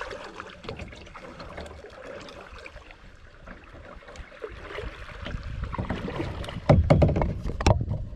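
Soft water sounds around a kayak on a river, then from about six seconds in a run of loud knocks and bumps with low rumble.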